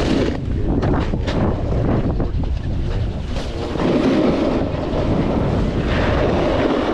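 Wind buffeting the microphone of a snowboarder's camera while riding down through powder, with the hiss of the board sliding over the snow swelling in the second half.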